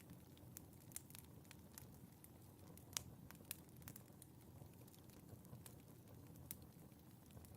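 Wood fire crackling faintly: scattered sharp pops and snaps at irregular intervals over a soft low rumble of burning, the loudest pop about three seconds in.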